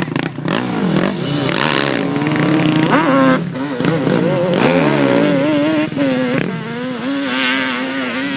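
Dirt bike engines revving up and easing off over and over, more than one engine at a time, their pitch rising and falling.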